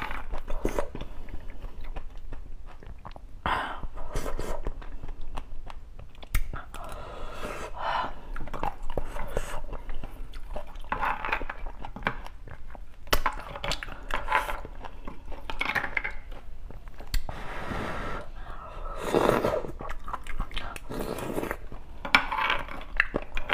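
Close-miked chewing of roasted beef bone marrow, in irregular short mouth sounds. A metal spoon scrapes marrow out of the split bone now and then.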